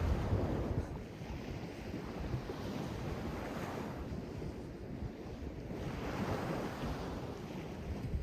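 Sea waves washing in, the surf swelling and easing every few seconds, with wind rumbling on the microphone.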